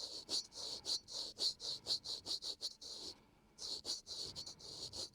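A razor scraping over a man's facial skin in short, quick strokes, about four a second, with a brief pause about three seconds in.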